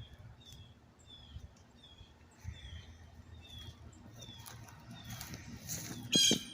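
A small bird chirping over and over, short falling chirps at about two a second, with a faint low rumble underneath. Near the end comes one brief, loud, high-pitched cry.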